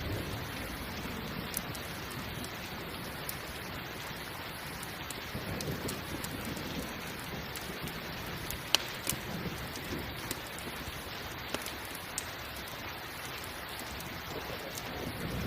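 Steady rain mixed with the crackle of a campfire: scattered sharp pops over the even hiss of the rain, the loudest about nine seconds in. A low rumble of thunder swells in the middle.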